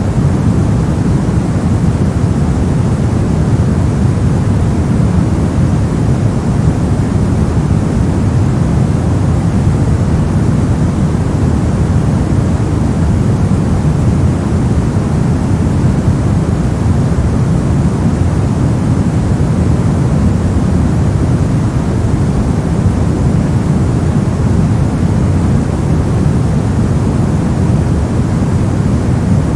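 Continuous white noise of a sleep-and-study noise track. It is steady and unchanging, a deep rushing hiss with most of its weight in the low range.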